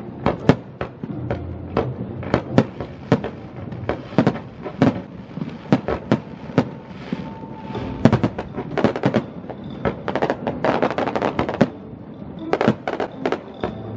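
Aerial fireworks bursting in quick succession, sharp bangs several times a second, with a dense run of crackling bursts from about eight seconds to twelve seconds in.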